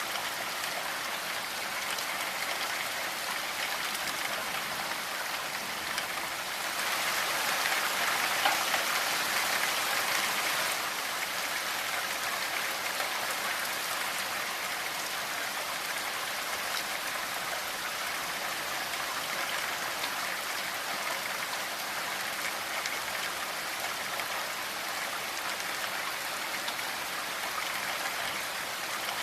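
Steady rainfall, an even hiss of drops that swells louder for about four seconds roughly a quarter of the way in.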